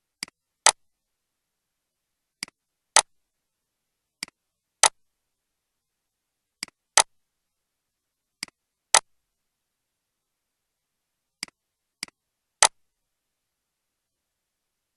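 Sharp single clicks in a silent background, coming in pairs about every two seconds: a softer click, then a louder one about half a second later. Near the end there is a group of three.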